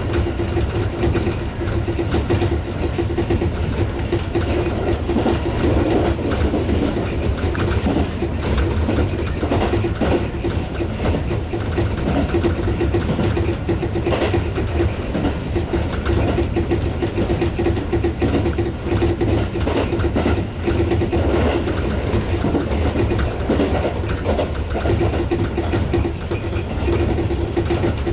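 Tobu 6050 series electric train running at speed, heard from inside the leading car: steady rail rumble with wheels clicking over rail joints, and a steady low hum and a high whine.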